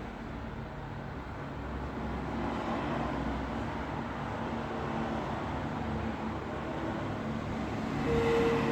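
Road traffic: motor vehicles passing with a steady low rumble. About eight seconds in, a loud held tone starts over it.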